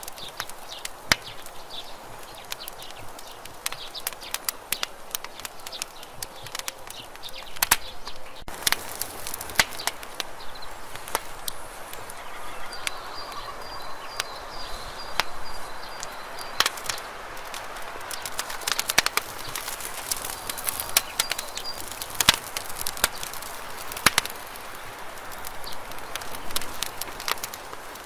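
Wood campfire burning, crackling with frequent sharp pops and snaps over a soft steady hiss of flame.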